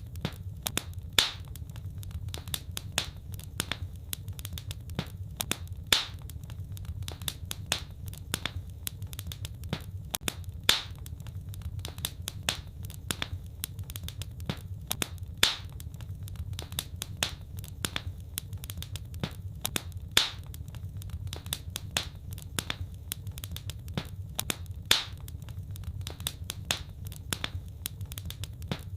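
Fireplace fire crackling: a dense run of small snaps and clicks, with a louder pop about every five seconds, over a steady low rumble.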